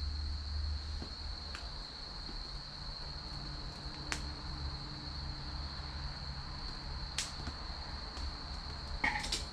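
Wood fire crackling, with a few sharp pops from the burning firewood, set against a steady high trill of crickets and a low hum underneath.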